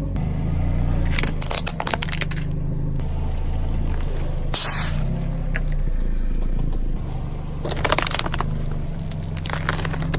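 A car's engine running slowly as its tyres crush crunchy objects: two spells of crackling and crunching, and a short loud hiss-like burst about four and a half seconds in.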